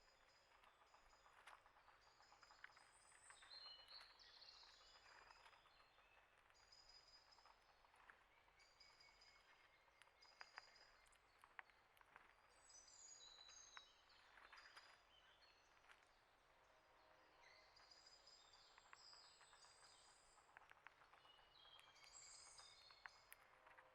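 Faint small songbirds chirping and calling, in runs of quick repeated high notes, with scattered light sharp ticks.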